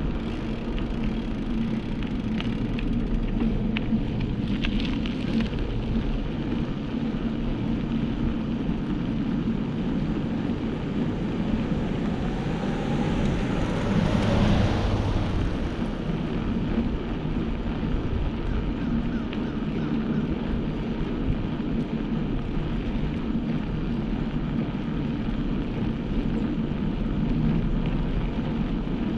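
Steady wind rush and road noise from riding, with a louder rush that swells and fades about halfway through.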